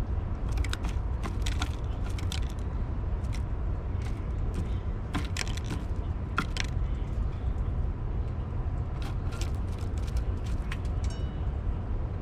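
A bird pecking and picking at seed on a feeder tray: sharp clicks and taps in three quick clusters over a steady low rumble.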